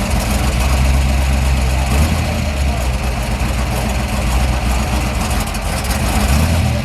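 A classic car's engine idling with a deep, steady low rumble. Its note shifts slightly about two seconds in.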